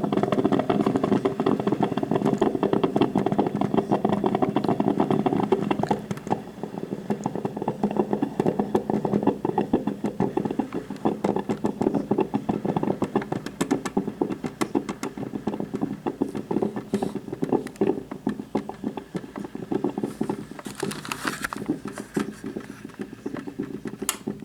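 Black & Decker thermal carafe drip coffee maker gurgling and sputtering as it brews, a fast steady crackle of bubbling water, louder for the first six seconds or so and then quieter.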